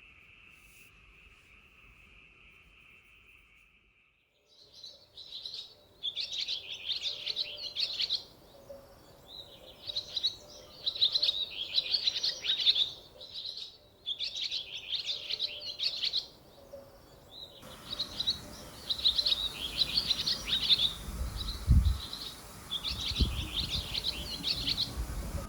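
A wild songbird singing in repeated bursts of rapid, high chirping phrases, each a second or two long with short pauses between. Before the song starts, only a faint steady high hum is heard. Near the end come two low thumps.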